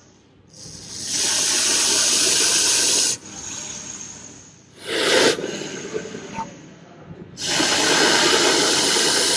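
Russell's viper hissing in an angry defensive display: two long hisses of about two seconds each, with a short, sharper hiss between them.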